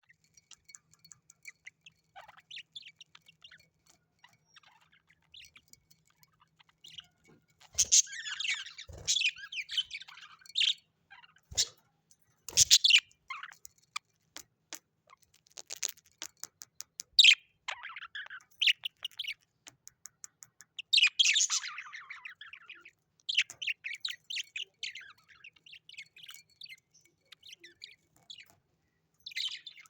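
Small parrots chirping, chattering and now and then squawking in rapid high calls, sparse at first and busier after several seconds, with a few sharp knocks in between.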